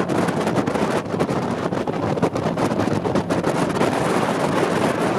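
Jet boat running at speed, a steady rushing roar of engine and water jet, with wind buffeting the microphone.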